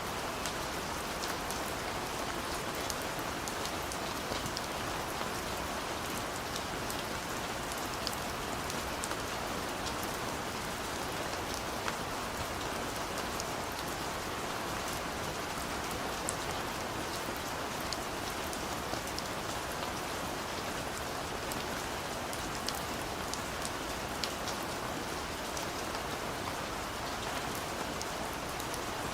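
Steady rain falling, an even hiss of rainfall with scattered individual drops ticking on a surface.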